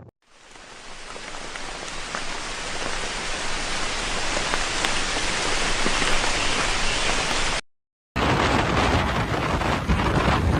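Heavy rain falling steadily, fading in over the first couple of seconds. It cuts off abruptly about three-quarters of the way through, and after a half-second gap a louder rush of wind and waves takes over.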